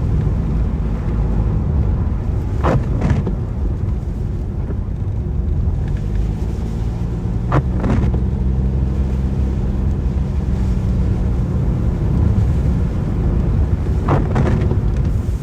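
A car driving in the rain: a steady low rumble of engine and road noise, with a few short knocks several seconds apart.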